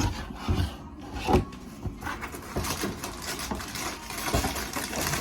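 Toy pieces and packaging being handled: a few sharp knocks near the start and about a second and a half in, then a run of small clicks, clatter and rustling.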